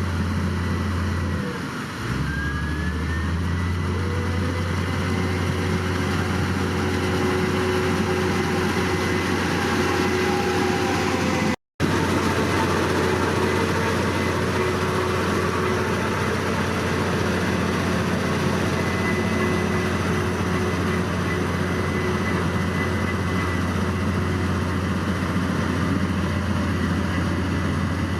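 Heavy diesel engine of earthmoving machinery running steadily under load, a deep continuous drone; the sound briefly drops out a little before halfway.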